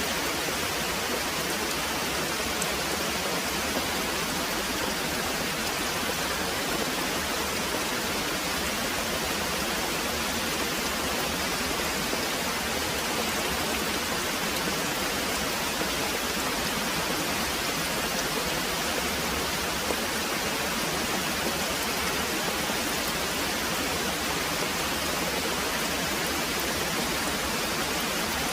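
Very heavy rain pouring steadily, an even, unbroken hiss with no thunder heard.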